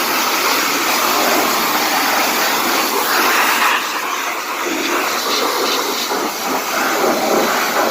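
Pressure washer jet spraying water onto a car's engine bay: a loud, steady hiss of spray that turns patchier about halfway through as the jet moves over different surfaces.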